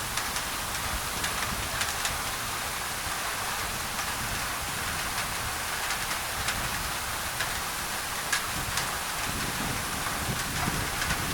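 Rain falling on a thin tin roof: a steady hiss dotted with sharp drop hits, over a low rumble that swells near the end.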